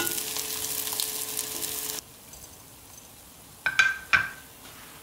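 Pancakes of tofu and crab stick sizzling in oil in a frying pan, with small scrapes of a spatula. About two seconds in the sizzle drops away abruptly. Near the end a spatula clinks sharply twice as the fried pancakes are lifted out.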